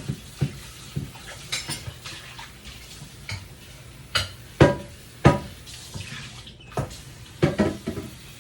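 Pots, dishes and utensils being handled in a kitchen: a string of separate knocks and clinks, the loudest pair a little past the middle.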